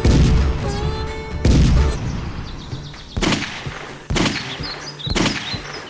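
A series of loud bangs, five in all, spaced about one to one and a half seconds apart, each dying away quickly, over background music.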